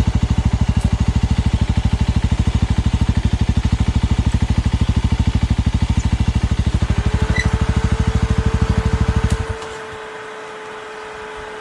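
Suzuki Thunder 250 motorcycle engine running with a steady, even throb, cutting off abruptly about nine and a half seconds in. A steady mid-pitched whine comes in a couple of seconds before the cutoff and carries on after it.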